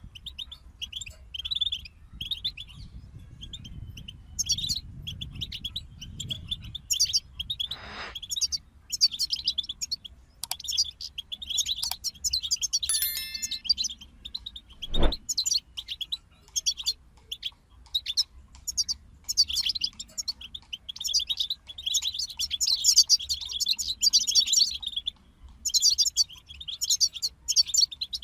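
European goldfinches singing: rapid, twittering song phrases that follow one another with short breaks. A single sharp click sounds about halfway through.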